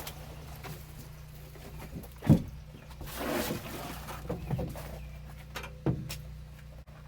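Handling noise: two dull thumps, the louder one about two seconds in and another near six seconds, with a brief rustle between them, over a steady low hum.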